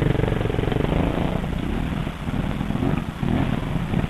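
Trials motorcycle engine idling at low revs, steadiest in the first second or so, then running more unevenly.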